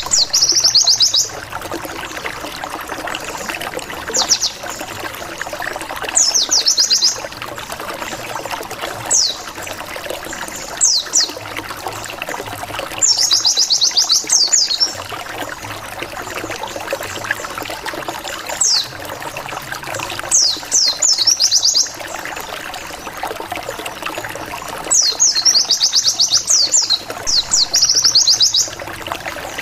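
Oriental white-eye (pleci) singing in bursts of rapid, high 'wit-wit-wit' notes, a burst every few seconds, over a steady trickle of running water. This is a provoking lure song that makes rival white-eyes answer.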